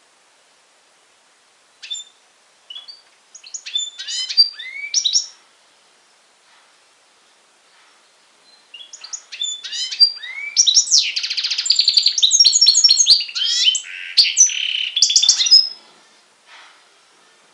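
European goldfinch × canary hybrid (a mule) singing: a short phrase of sweeping notes about two seconds in, then after a pause a long, loud phrase of fast trills and twittering runs.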